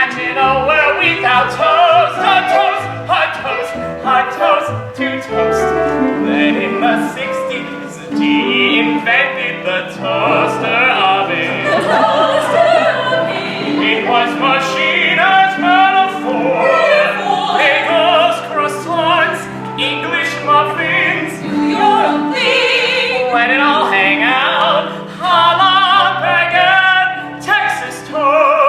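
A tenor singing in an operatic style with vibrato, over instrumental accompaniment.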